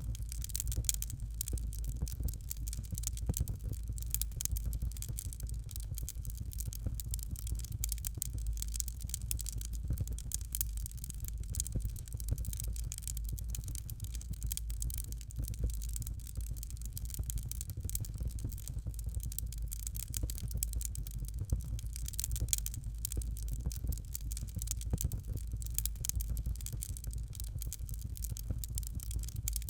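Fireplace fire crackling steadily, a dense stream of small pops and snaps over a low, even rumble.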